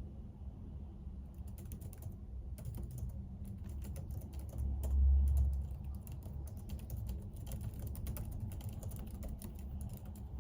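Typing on a computer keyboard: a quick, uneven run of key clicks that starts about a second in, over a steady low hum. About halfway through there is a brief low rumble, the loudest moment.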